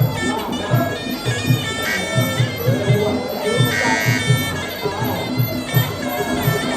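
Muay Thai sarama fight music: a nasal pi java (Thai oboe) playing a winding, bending melody over a quick, steady drum beat.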